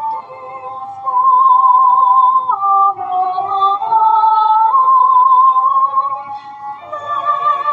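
A hymn being sung slowly, in long held notes with vibrato, the tune stepping from note to note. It is quieter for the first second or so and again near the end.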